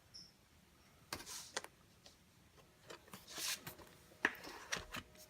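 Sticker sheets and planner pages being handled: a few short paper rustles and light clicks as stickers are peeled and pressed down.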